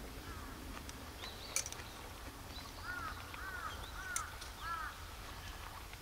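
A bird calling outdoors, four short arched calls in quick succession about three seconds in, over a low steady outdoor rumble. A couple of sharp light clicks, chopsticks against a stainless bowl.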